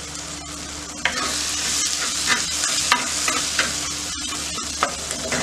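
Onion-tomato masala frying in sesame oil in a clay pot, sizzling while a flat spatula stirs and scrapes it. The sizzle grows louder about a second in as the stirring starts, with a scrape every half second or so.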